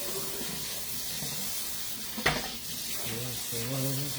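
Food sizzling steadily in a hot pan, with a sharp knock of cookware about two seconds in and a brief low hum of a voice near the end.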